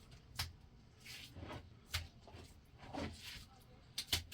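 A few sharp knocks, one every second or two with a quick double knock near the end, and soft scraping between them, as of hand work with hard objects.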